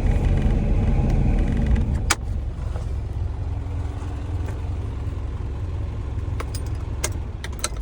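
Engine of a refrigerated box truck running steadily at idle. A sharp click about two seconds in, after which the running is quieter, and a few light clicks near the end.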